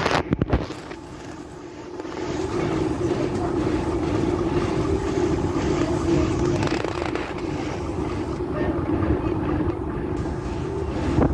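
A heritage railway train running: a steady drone with a constant low hum. There are a few sharp knocks about half a second in.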